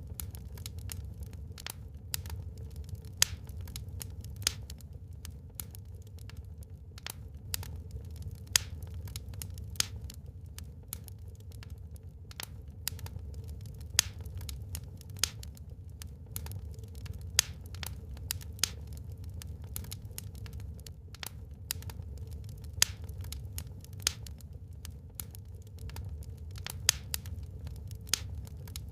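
Wood fire burning in a fireplace, crackling: irregular sharp pops and snaps, a few of them louder, over a low steady rumble.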